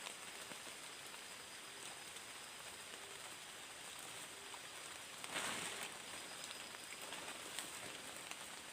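Rain falling steadily, with scattered drops ticking and a brief louder rush about five seconds in.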